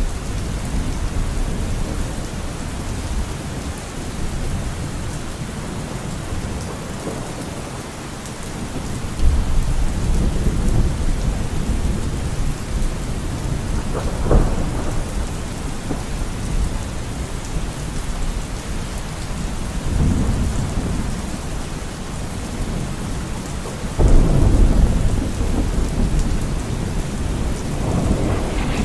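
Steady rain falling, with low rumbles of thunder. The rumbles start suddenly about a third of the way through and again near the end.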